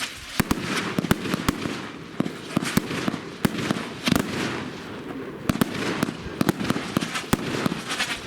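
Consumer firework cake firing: many sharp, irregular bangs, several a second, over a continuous crackling hiss.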